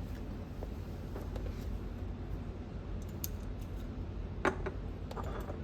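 A light bulb being swapped in its holder: faint handling clicks and scrapes, with one sharp click about four and a half seconds in, over a steady low hum.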